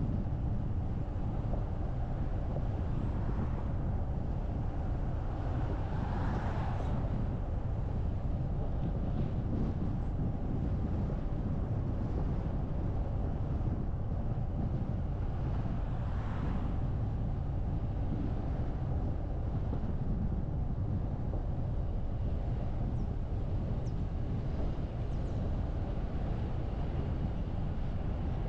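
Steady low rumble of a car driving, engine and tyre road noise, with two brief louder swells about six and sixteen seconds in.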